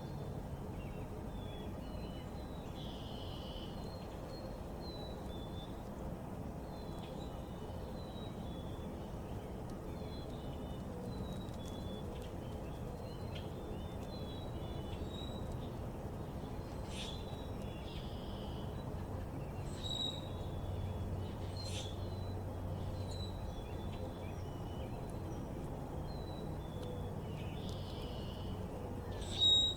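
Small backyard birds chirping, with many short high chirps coming one after another over a steady low background rumble. A brief, louder sound stands out near the end.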